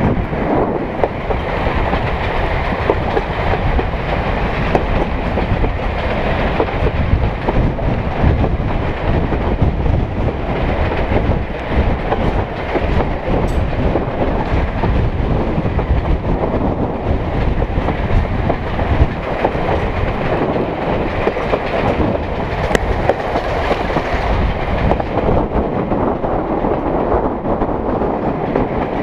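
Derby Class 108 diesel railcar running along the line, heard from aboard: a steady underfloor diesel drone mixed with the noise of the wheels running over the track.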